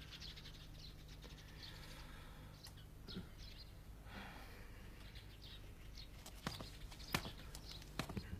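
Faint birds chirping in the background, with a few soft knocks a little past the middle of the sound.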